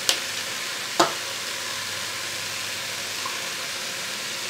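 Sausage, potatoes and onion sizzling steadily in a multicooker pot on its frying setting. Near the start a spoon clicks sharply twice, about a second apart.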